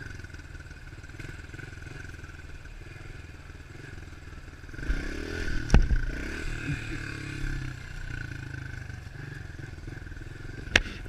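110cc four-stroke pitbike engine running steadily, revving up about five seconds in, with a sharp loud knock near six seconds and another sharp click near the end.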